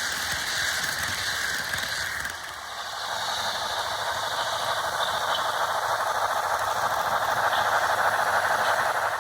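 HO-scale model train, a Pennsylvania Railroad K4s steam locomotive with heavyweight passenger cars, running on the track with a steady mechanical rattle of wheels and gearing. The noise dips briefly after about two seconds, then grows steadily louder as the train comes closer.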